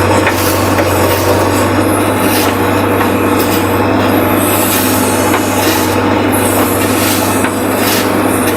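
JCB 3DX backhoe loader's diesel engine running steadily under digging load, with scattered short clicks and knocks from the working arm and bucket.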